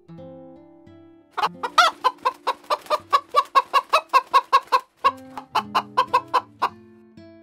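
A brown hen clucking in quick, even runs of about four to five clucks a second, starting a little over a second in, with a short break about five seconds in. Soft plucked guitar music plays underneath.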